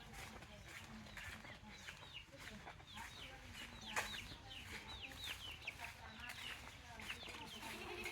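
Domestic chickens calling: a run of short, high peeps that fall in pitch, repeating about three a second, with a sharp click about four seconds in.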